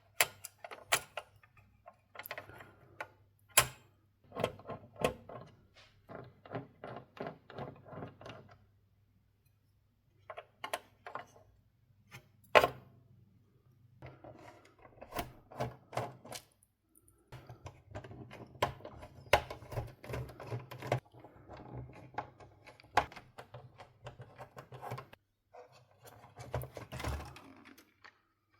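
Rapid clicking and rattling of hard plastic and small metal parts being handled, in irregular bursts with a few sharper knocks, over a faint low hum that comes and goes.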